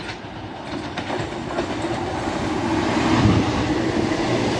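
ScotRail Class 170 Turbostar diesel multiple unit approaching through the station, growing steadily louder. Its wheels click over the rails at first, then a steady diesel hum builds.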